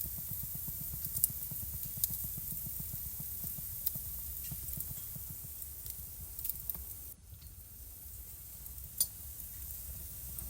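Wood fire burning in a fireplace: a steady low rumble of flames with a hiss, broken by scattered sharp crackles and pops, the loudest about a second in and again about nine seconds in. The sound drops briefly just after seven seconds.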